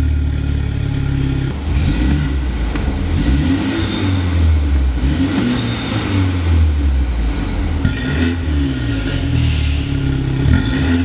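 BMW 530i (G30) four-cylinder turbo engine through an aftermarket Armytrix valved exhaust. It idles, then from about a second and a half in is revved repeatedly, its pitch rising and falling back each time.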